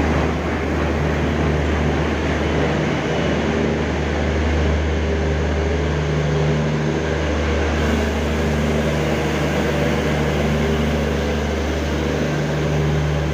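Diesel-hauled passenger train pulling in alongside the platform: the WDG3A ALCO locomotive rolls past, then the coaches, with a loud, steady low engine hum and running noise.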